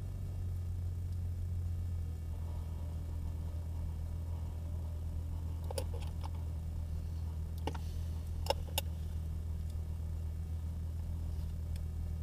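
A car engine idling, heard from inside the cabin as a steady low hum. A few short, sharp clicks come in about six to nine seconds in, two of them close together near the end of that stretch.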